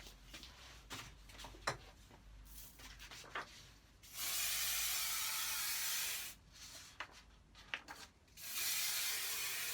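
Aerosol spray can hissing in two steady bursts of about two seconds each, separated and surrounded by small rustles and clicks of handling.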